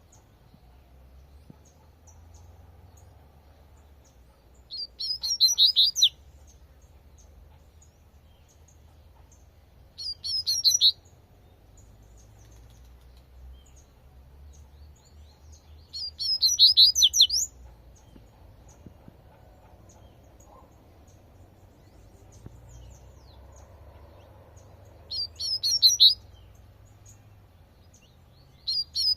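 Double-collared seedeater (coleirinho) singing its 'tui-tui' song: four short phrases of rapid, high whistled notes, each about a second long and spaced five to six seconds apart, with a fifth phrase starting at the very end.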